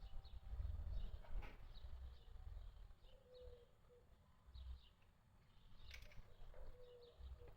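Faint birds chirping, short high calls repeated every second or so, over a low rumble.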